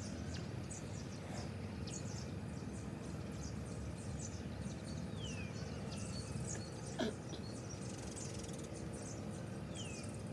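Small birds chirping, with many short high chirps and twice a falling whistled note, over a steady low outdoor rumble; a single sharp click about seven seconds in.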